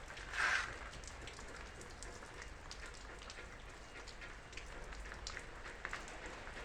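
Steady heavy rain falling, with many individual drops ticking on a hard surface. About half a second in there is a brief, louder noise.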